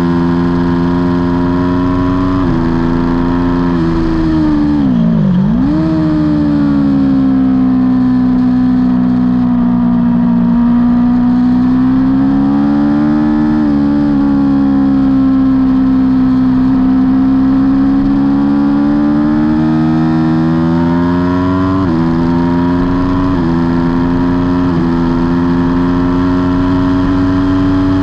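Aprilia Tuono V4's V4 engine running hard at high revs, heard on board. About five seconds in the revs drop sharply and climb straight back, and several sudden steps in pitch mark gear changes, one early and a cluster near the end.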